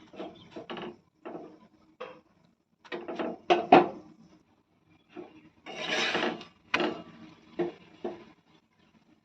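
Wooden rolling pin rolling back and forth over a wooden board, flattening roti dough, in irregular rubbing strokes with a few sharp knocks.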